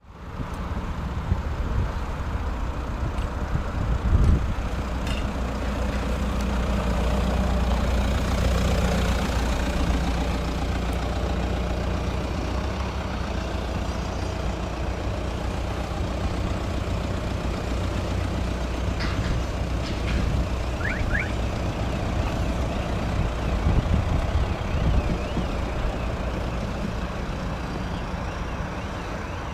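A motor vehicle engine running steadily with a low drone, with a thud about four seconds in and a few short high chirps near the middle.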